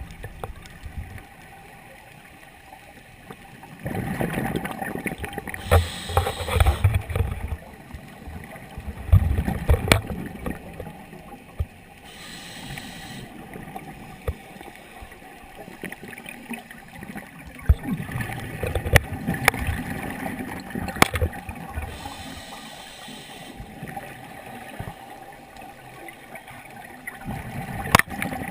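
Scuba diver breathing through a regulator underwater: slow breaths a few seconds apart, each a short hiss of inhalation and a gurgling rush of exhaled bubbles. A few sharp clicks come in between.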